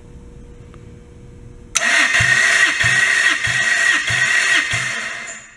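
Starter motor cranking a Toyota 1UZ V8 during a compression test, without the engine firing. It cuts in suddenly about two seconds in, with a steady starter whine and an even beat from the compression strokes, roughly one and a half a second, then winds down near the end.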